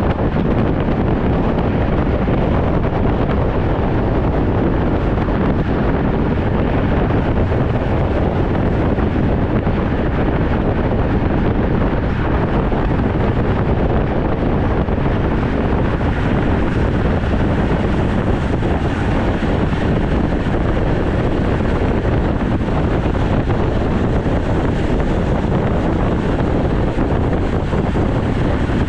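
Steady rush of wind buffeting the microphone on a moving road bike, loud and unbroken.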